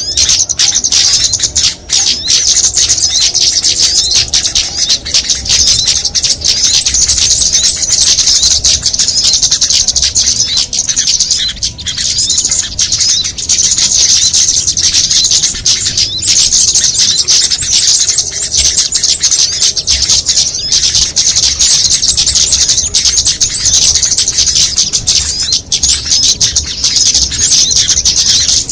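Dense, continuous high-pitched chirping and twittering of many small songbirds together, with no pauses. It is a mixed bird-lure (pikat) recording used to draw small birds in.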